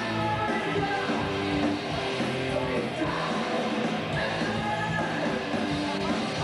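Heavy metal band playing live: a loud, dense full-band rock song.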